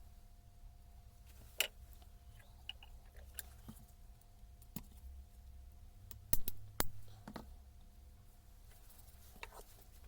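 Scattered clicks and knocks of tools and metal parts being handled during a hammer-drill repair, over a steady low hum. The two loudest knocks come close together about six and a half seconds in.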